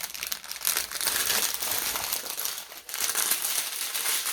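Small plastic bags of diamond-painting drills crinkling as they are handled and sorted, a continuous crackle of fine ticks that dips briefly about three seconds in.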